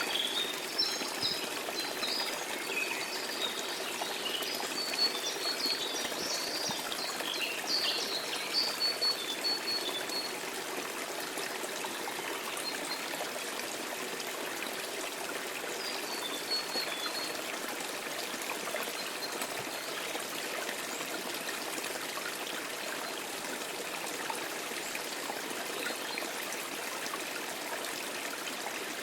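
Forest stream of the Pathippara river, water running and splashing steadily over rocks. Scattered high chirps sound over it for the first ten seconds or so and again briefly later.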